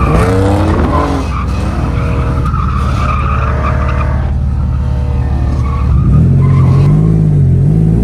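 1985 Nissan 300ZX with a welded differential drifting: its V6 engine revving up and down while the rear tyres squeal and skid.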